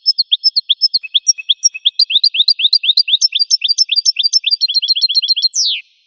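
A finch singing one song phrase: quick high chirping notes that speed up into a fast trill, ending in one downward-sweeping note.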